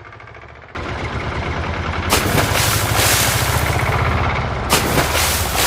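Heavy vehicle engine sound running with a fast, even chugging beat. It cuts in suddenly and louder about a second in, and a harsh rushing noise lies over it in two long stretches.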